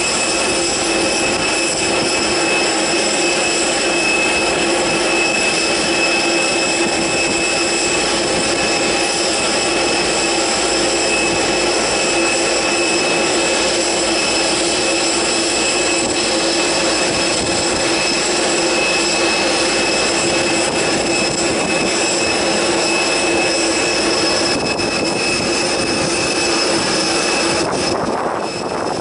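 Airbus A330 airliner's jet engines running loud and steady, with high whining tones over the roar; the sound eases slightly near the end.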